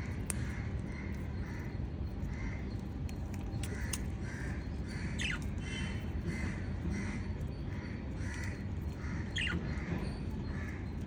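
Lovebirds calling while they feed, with short harsh chirps about twice a second. Two of the calls are longer and fall in pitch, and a few sharp clicks stand out.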